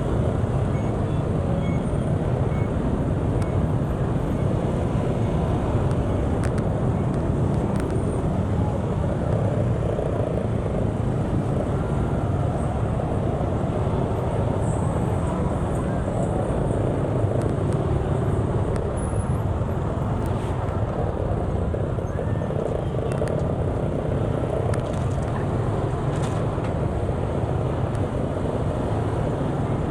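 Steady, unbroken low rumble of vehicle engine and road noise in a street.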